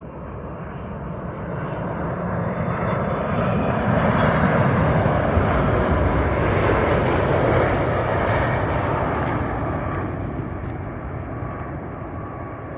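Jet airliner passing low overhead: engine noise swells to a peak in the middle and fades away.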